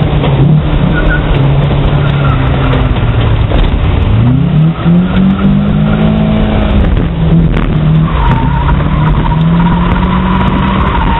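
Car engine heard from inside the car, running hard around a paved oval track with tyre noise. About four seconds in, the engine pitch drops and climbs back up. From about eight seconds in, a steady high tyre squeal joins as the car corners.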